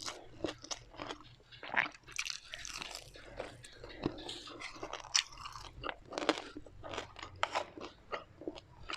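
Close-miked biting and chewing of crunchy fried food, with sharp, irregular crunches several times a second.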